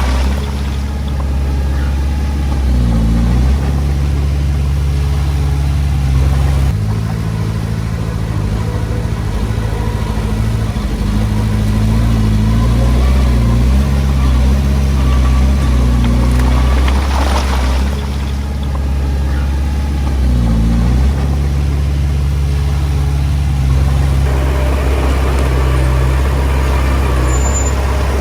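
Heavy-machine diesel engine running steadily under load, its pitch dipping and rising several times as the revs change.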